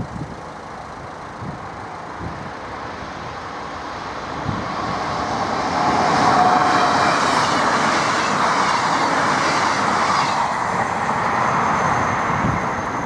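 Passenger train passing, its wheels running on the rails. The noise builds from about four seconds in, is loudest for about five seconds with a hissing high edge, then fades as the train moves away.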